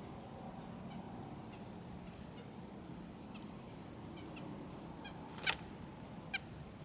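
Wild birds calling at a backyard feeder: faint, short, high chips throughout, then two louder calls about a second apart near the end, over a steady low background hum.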